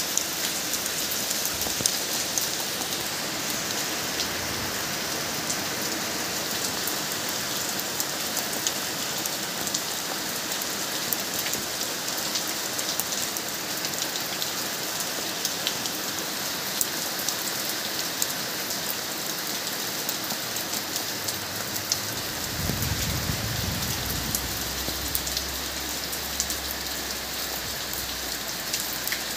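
Steady rain falling, with individual drops ticking close by throughout. A low rumble comes in about three quarters of the way through and carries on under the rain.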